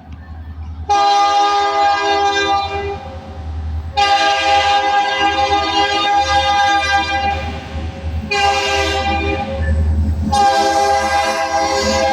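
Diesel locomotive air horn of a vintage EMD SD40-series engine sounding a chord in four blasts: long, long, short, then a long one that is still going. This is the standard grade-crossing signal. Beneath it runs the locomotive's steady low diesel rumble.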